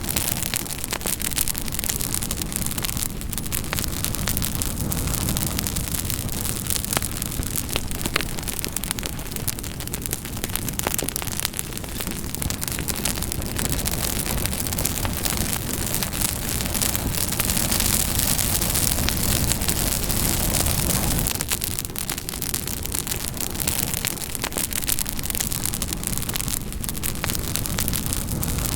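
Campfire burning, a steady hiss and low rumble of flames with frequent sharp crackles and pops of burning wood.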